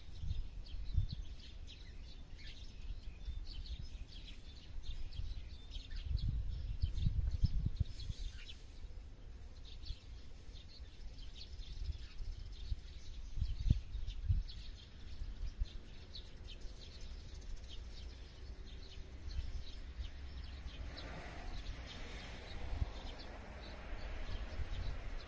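Many small birds chirping and twittering in a countryside soundscape, with low rumbles now and then.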